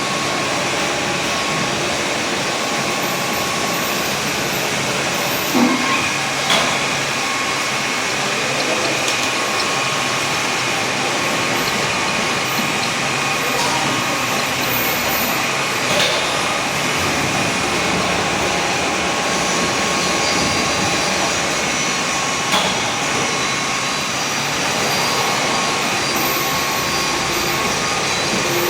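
BFW HF 3.5 milling machine running under power, a steady mechanical running noise from its motor and gearbox with faint steady tones, broken by a few sharp clicks.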